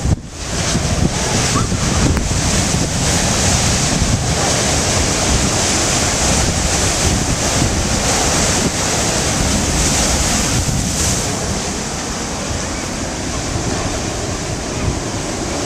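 Hurricane-driven storm surf breaking continuously, mixed with heavy wind buffeting the microphone as a low rumble. The loud, steady wash of noise dips only briefly at the very start.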